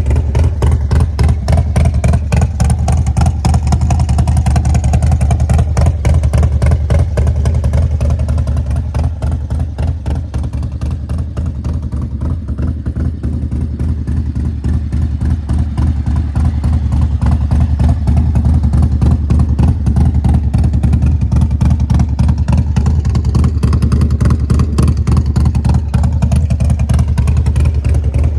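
Custom Harley-Davidson Road Glide's 135 cubic-inch V-twin crate motor running at a steady idle just after being started, its low exhaust pulses throbbing evenly.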